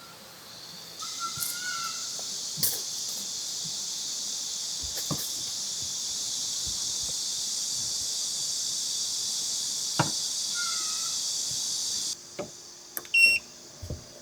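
Cicadas buzzing in a steady high drone that starts about a second in and cuts off suddenly near the end. A bird chirps twice, there are a few light clicks, and short high beeps and clicks come after the drone stops.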